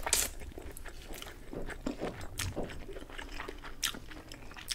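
Close-up mouth sounds of eating thin noodles: a short slurp as a forkful of vermicelli is sucked in right at the start, then quiet wet chewing with scattered mouth clicks.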